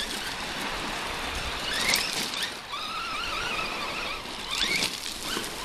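Redcat Shredder 1/6-scale RC truck's electric motor whining, its pitch rising and falling with the throttle, over a steady rushing noise.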